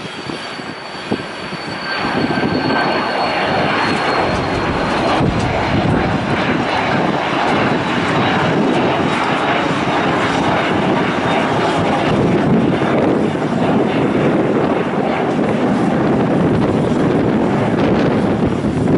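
An airliner's engines passing close: a loud, steady rushing that swells about two seconds in and holds, with a faint high whine that slowly drops in pitch early on.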